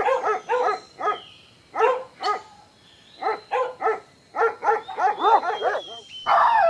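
A dog barking in quick runs of short, high-pitched yapping barks, with brief pauses between the runs. A louder, rougher sound comes in just before the end.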